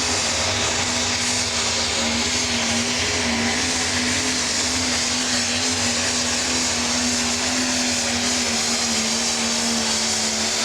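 Turbocharged diesel engine of a 10,000 lb pro stock pulling tractor held at full throttle during a pull, running at a steady high pitch with a loud high turbo whistle.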